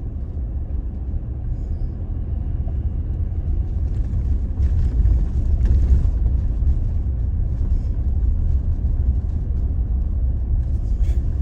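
Toyota Tacoma pickup driving along a dry dirt track, a steady low rumble of engine and tyres with a few faint rattles about halfway through.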